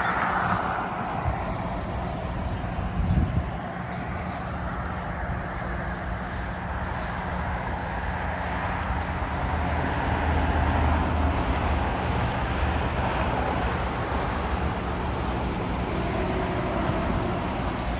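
Distant jet aircraft and traffic making a steady rumble, with wind on the microphone. A brighter rushing from a jet fades away over the first couple of seconds.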